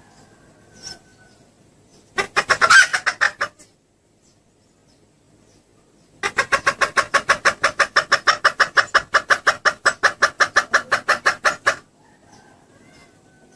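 Recorded lure call of a female red junglefowl: a short burst of rapid clucks, then, after a pause, a longer, even run of rapid clucks lasting over five seconds. It is a hen's call used to draw a cock junglefowl in.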